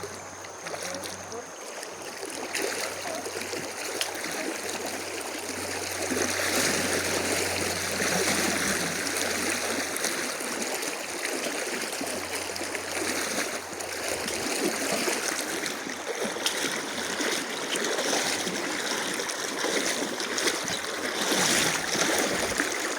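River water rushing and splashing, a steady noise that grows louder about six seconds in. A low steady hum runs underneath and fades out about two thirds of the way through.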